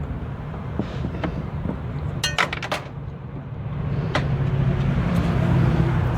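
Clicks and clinks of handling at a washing machine's drain pump filter while a blockage is pulled out, with a quick rattling cluster of clicks about two seconds in, over a steady low hum.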